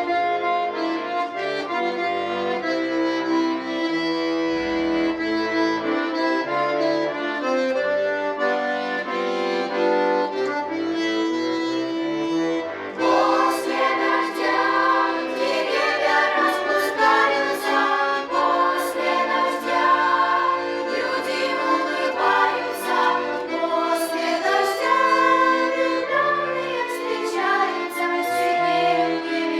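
An instrumental passage with a sustained, accordion-like melody, then about halfway through a girls' vocal ensemble comes in singing in unison over the accompaniment.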